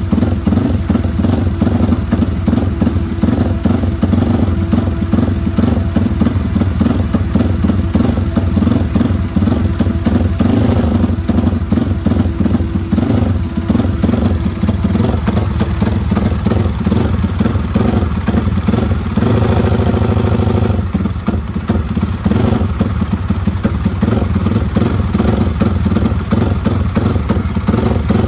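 Yamaha Vixion drag-race motorcycle's single-cylinder four-stroke engine running loudly and steadily, with a brief change in engine note about twenty seconds in.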